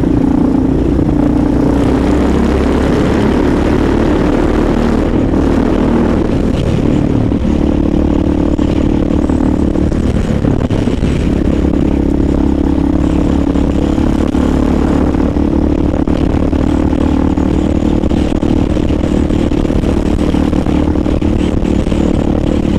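Honda XR single-cylinder dual-sport motorcycle engine running steadily under way, with wind and road noise, its note shifting briefly a couple of times along the way.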